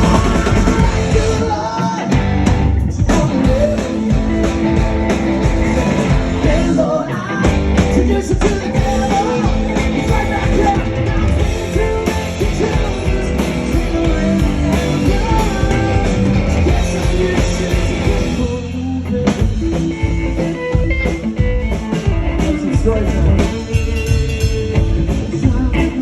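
Live rock band playing a passage without lyrics: electric guitar lines over bass and drums. The bass and drums briefly drop out about two-thirds of the way through, then come back in.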